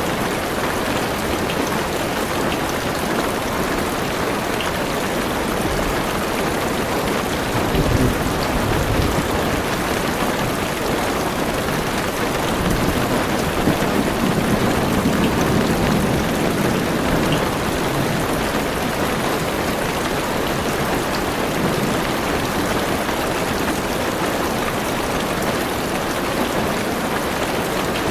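Heavy rain pattering steadily on a car roof and windows, heard from inside the car. Low thunder rumbles swell twice, briefly about a quarter of the way in and longer around the middle.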